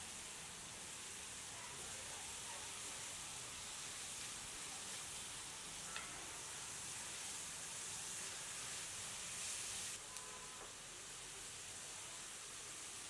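Food frying in oil in a cooking vessel, a steady sizzling hiss, with two light knocks about six and ten seconds in.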